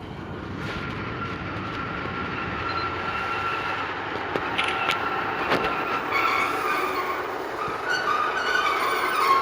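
A train running on the rails, growing steadily louder, with thin high squealing tones over the running noise that become stronger near the end and a few sharp clicks around the middle.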